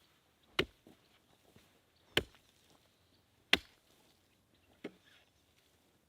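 Four sharp chopping strikes, about one and a half seconds apart; the last one is weaker.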